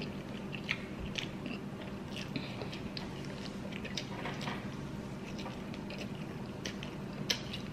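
A person eating close to the microphone, chewing and biting french fries and a chicken wing, with small wet mouth clicks and smacks scattered throughout.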